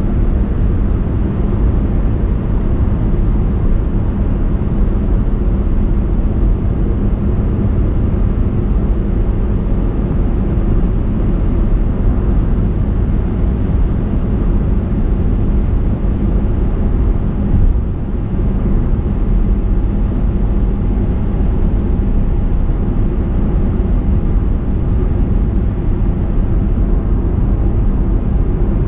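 A moving car's steady road and engine noise, a low rumble of tyres and engine heard from inside the car, with a brief dip in level a little past the middle.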